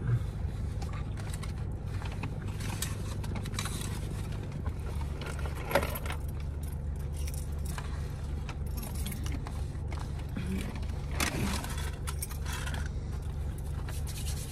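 Close-up eating noises: chewing, with scattered crinkles and clicks of food packaging being handled, over a steady low hum inside a car.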